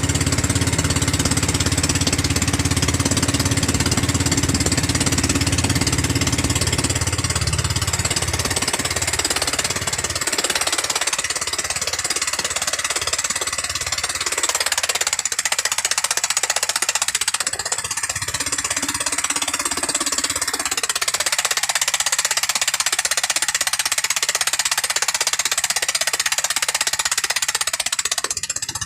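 13 HP gasoline engine running steadily with a fast rattling clatter. Its deep hum fades about a third of the way in, leaving mostly a hissing clatter, and comes back at the very end.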